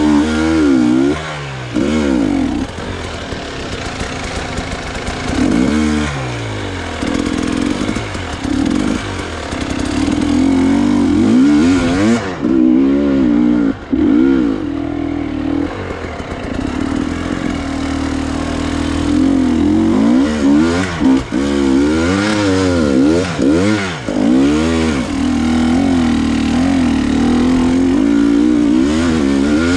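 Enduro motorcycle engine running under way, its pitch climbing and dropping again and again as the throttle is worked.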